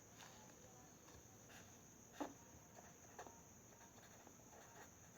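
Near silence: room tone with a few faint short ticks of writing on a drawing, the clearest about two seconds in.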